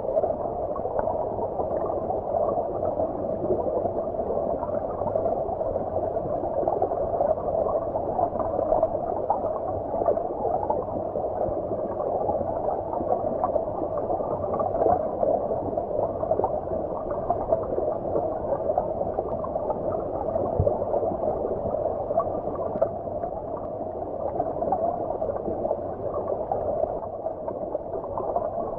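Flowing stream water heard as if from underwater: a steady, muffled bubbling gurgle with the high end cut away, so it sounds dull and deep.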